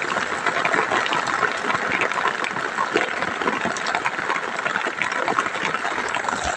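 Heavy rain hitting a tent, heard from inside: a steady, dense hiss made of many small drop ticks.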